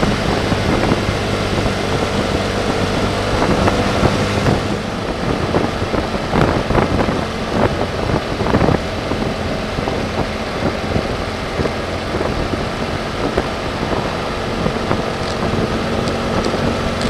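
BMW F800GS parallel-twin engine running at a steady cruise, with wind rushing over the microphone. The wind noise turns uneven and gusty for a few seconds around the middle.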